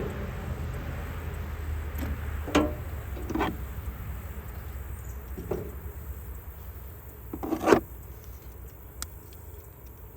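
Hand tools being gathered and put away: a few scattered knocks and clatters, the loudest about three quarters of the way through, over a low steady rumble.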